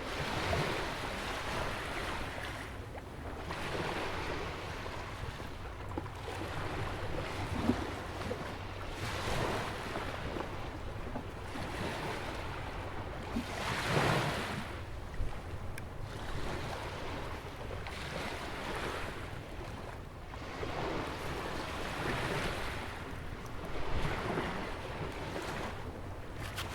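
Atlantic Ocean waves breaking and washing in on a sandy beach beside a jetty, one surge every two or three seconds, the loudest about halfway through. Under it runs a low wind rumble on the microphone.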